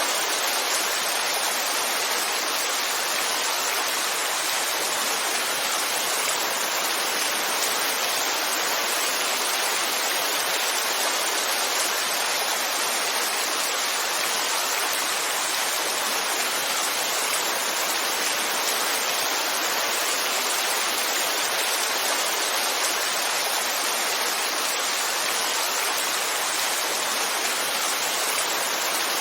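Heavy rainfall, a steady dense hiss with no single drops standing out.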